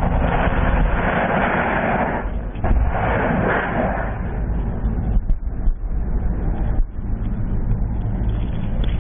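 Helicopter in flight: a steady low drone from the rotor and engines, with a loud rushing noise that swells twice in the first four seconds.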